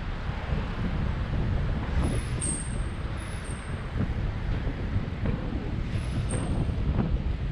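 Wind buffeting the microphone of a camera carried on a moving bicycle, a steady low rushing, with a few brief high-pitched squeaks.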